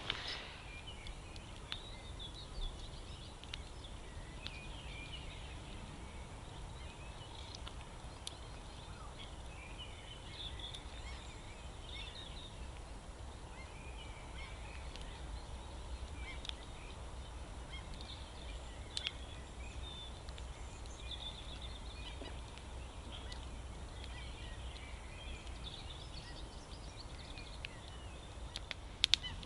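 Faint outdoor ambience: scattered distant bird calls, with a few sharp pops from a campfire catching on dry wood.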